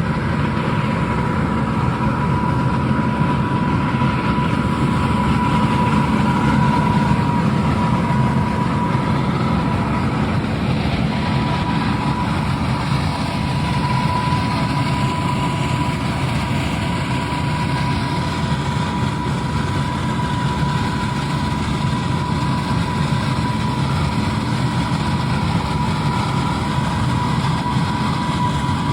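Twin-fan airblast orchard sprayer with a double air cannon, running steadily behind a tractor engine: a constant rush of fan air over a low engine rumble, with a steady high whine throughout.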